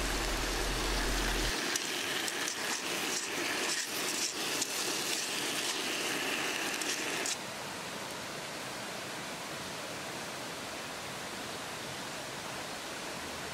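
Garlic shrimp sizzling in a small cast-iron skillet over a gas burner, a gentle hiss with light crackles and clicks as the shrimp are turned; the flame is too weak for a lively sizzle. About seven seconds in it drops to a quieter, steady hiss.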